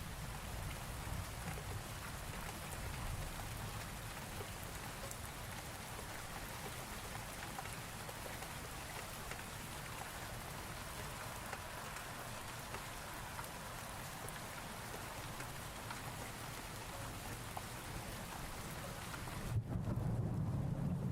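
Thunderstorm ambience: steady rain with a low rumble of thunder beneath it. Near the end the rain's hiss drops away and a louder, deeper thunder rumble comes in.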